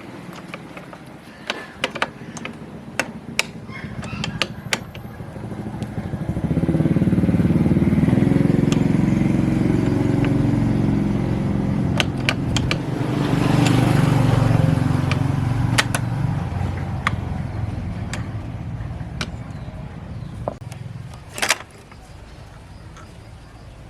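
A motor running with a low hum that swells about six seconds in and slowly fades, with scattered sharp clicks and taps over it.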